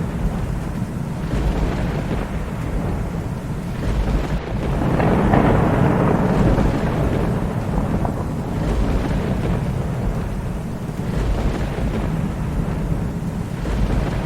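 Thunder rumbling over steady rain. The rumble swells to its loudest a third of the way in, then eases back into a continuous low roll under the rain.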